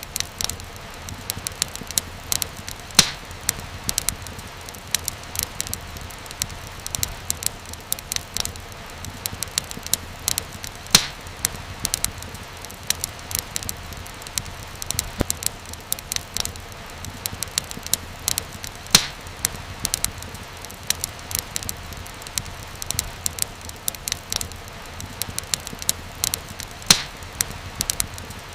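Wood fire crackling in a fireplace: dense small snaps and ticks over a low steady rumble, with a louder pop about every eight seconds.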